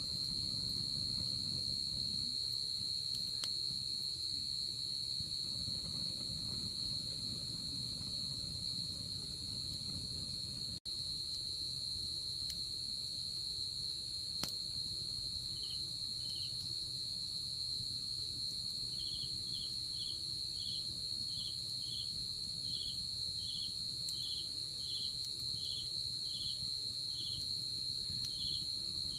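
Night insects calling: one continuous, steady high-pitched trill, joined about halfway through by another insect chirping in short, evenly spaced pulses, one to two a second. Underneath, a low hiss of a wood fire with a few faint crackles.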